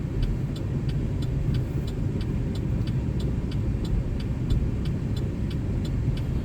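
Vehicle engine running steadily under load on the road, heard from inside the cab, with a regular ticking about three times a second.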